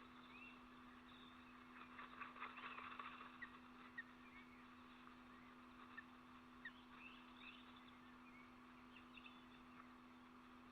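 Near silence: a steady low hum with faint distant birds chirping now and then, and a brief patch of faint crackling about two seconds in.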